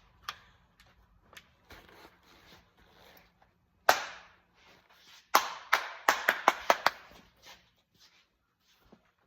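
Knocks and clatter of hard objects being handled and bumped, with faint rustling. There is one loud knock with a short ring-out about four seconds in, then a quick run of about eight sharp knocks a second or two later.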